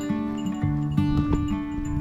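Background music: plucked acoustic guitar with bell-like chime notes.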